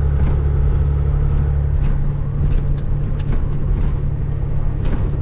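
Cat 3406E inline-six diesel of a Freightliner FLD120 semi truck running steadily under way, heard from inside the cab with road noise. Its low drone eases a little about two seconds in, and a few faint clicks come through later.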